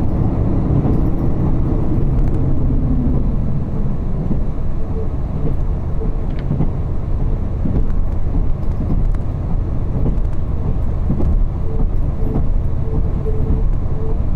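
Diesel railcar running along the line, heard from inside the passenger cabin. A steady low rumble of engine and wheels on track, with a few faint ticks.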